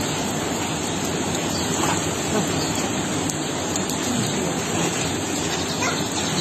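Floodwater rushing in a swollen river: a loud, steady, even noise with no breaks.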